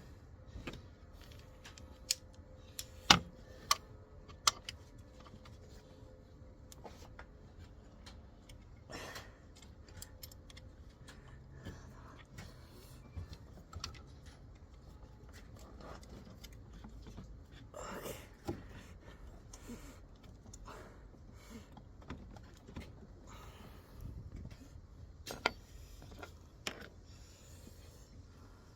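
Hand tools clicking and clinking on metal while the belt tensioner pulley is being fitted: scattered small clicks, with a few sharper knocks about two to five seconds in and another near the end.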